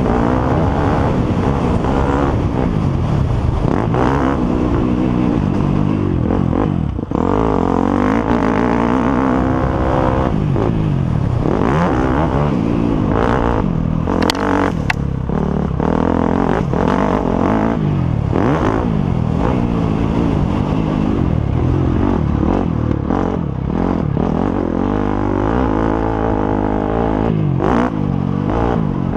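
Several motocross bikes' engines running at once, their pitches rising and falling over one another as the riders rev and shift.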